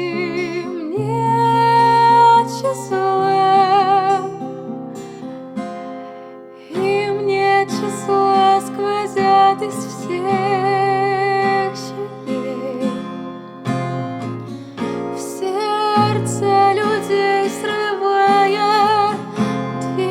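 A woman singing a slow song with vibrato on her held notes, over acoustic guitar.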